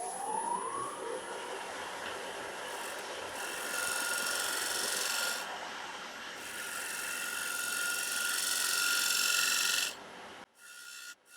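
Diamond scraper shear-scraping the outside of a spinning walnut bowl blank on a wood lathe: a steady cutting hiss that swells in two long passes and stops about ten seconds in as the tool comes off the wood. A faint steady whine from the lathe runs on after it, and a short rising whine comes right at the start.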